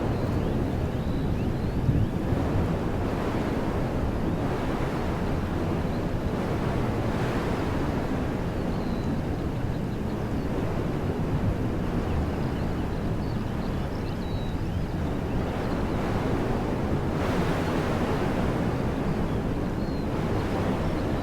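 Wind blowing steadily through woodland trees, with a heavy low rumble of wind on the microphone and a stronger gust about three-quarters of the way through. Faint high bird chirps come now and then.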